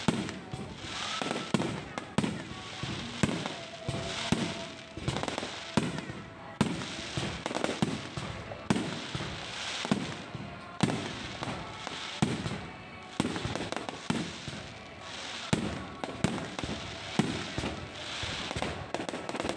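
Low-altitude fireworks going off in a continuous barrage: a steady run of sharp bangs, a little more than one a second, with crackling hiss between them.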